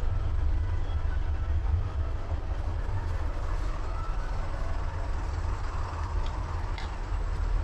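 Steady low rumble of vehicle noise, with a couple of faint clicks near the end.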